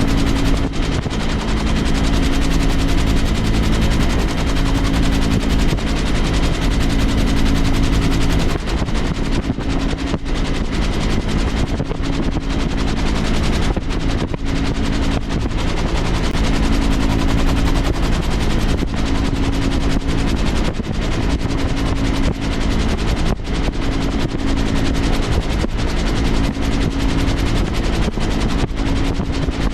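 Helicopter in flight: a rapid rotor chop over a steady low drone, the drone's pitch shifting about eight seconds in.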